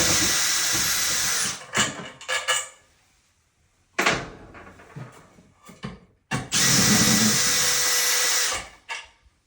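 Power drill-driver removing screws. It runs steadily, stops about a second and a half in, and runs again for about two seconds near the end, with a few clicks and a clatter in between.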